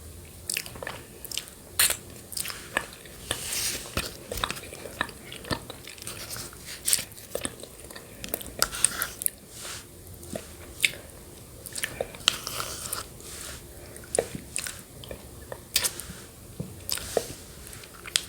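Close-miked mouth sounds of someone eating yogurt with grated coconut: irregular sharp clicks, wet smacks and crunchy chewing.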